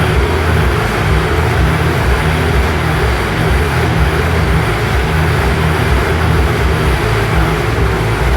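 Steady, unbroken engine rumble with a wash of hiss, like a running vehicle.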